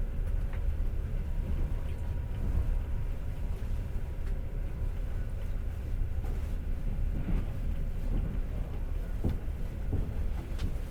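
Passenger train running, heard from inside the carriage: a steady low rumble of wheels on rails, with a few faint knocks in the second half.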